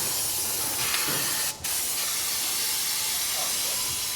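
A steady spraying hiss as the car's differential parts are being cleaned. It cuts out briefly about one and a half seconds in, then starts again.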